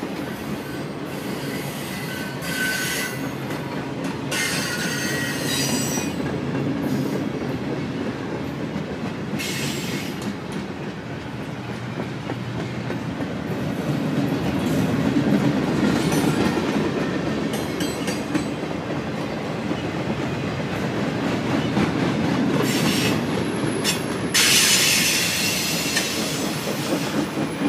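Loaded freight cars rolling past on a curve: a steady rumble of steel wheels on the rails, with high wheel squeal rising several times, loudest near the end.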